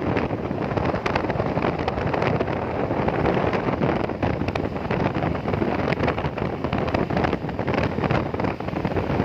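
Wind buffeting the microphone on a moving motorcycle, mixed with the bike's running and road noise: a steady, loud, fluttering rush.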